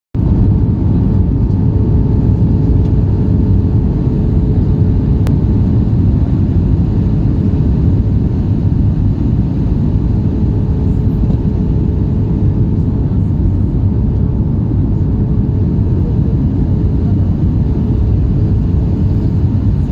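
Airliner cabin noise during the landing approach: a steady, loud rumble of engines and airflow with a constant hum running through it.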